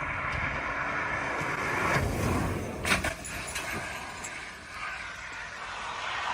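Car and road noise, steady, with a short sharp knock about three seconds in.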